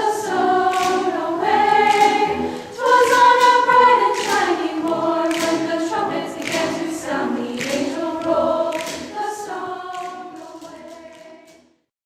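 Choir singing in harmony, several voice parts at once; the last phrase dies away near the end.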